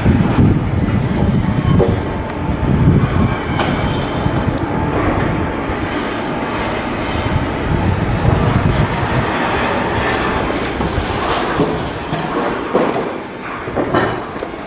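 Shipyard steelwork noise: a steady heavy machinery din with many short metallic knocks and some high squeals.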